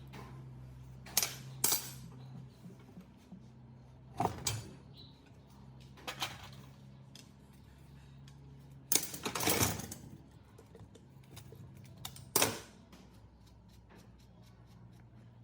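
Metal parts being handled on a workbench: a handful of separate sharp clinks and knocks, with a longer rattling scrape about nine seconds in, over a steady low hum.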